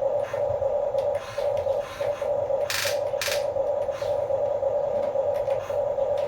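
Small electric motors and plastic gearing of a remote-control construction toy whining steadily, with two short scrapes about three seconds in.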